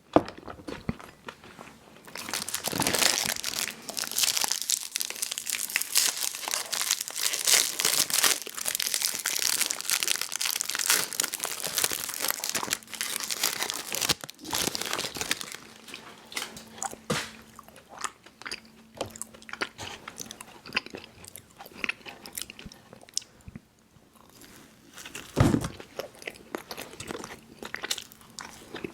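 Close-miked mouth chewing chewy fruit candies, with wet smacking and crunchy clicks. The chewing is dense for the first half and sparser after, with one louder bite or crunch near the end.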